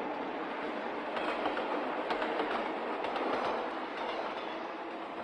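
A train running along the track, its wheels clacking over rail joints in a cluster of clicks through the middle, the sound slowly easing off toward the end.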